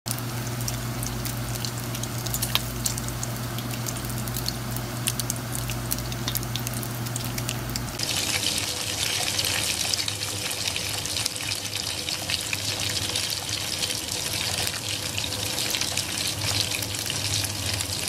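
Food sizzling in a hot pan, a steady hiss with scattered small pops and crackles: first bacon strips on a ridged grill pan over a steady low hum, then about eight seconds in the sound cuts to a brighter, hissier sizzle of meat frying in oil.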